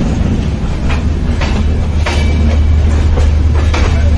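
Passenger train rolling slowly along the tracks: a steady low rumble from the coaches, with wheels clacking over rail joints every second or so.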